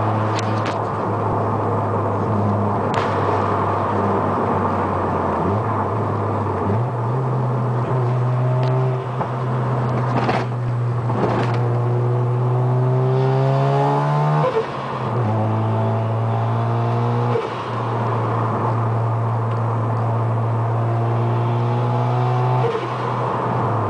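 Mazda RX-7 FD3S's twin-rotor rotary engine, converted to a Trust single turbo, running steadily and then pulling hard through the gears. Its pitch rises in long sweeps, broken by three brief dips at the gear changes.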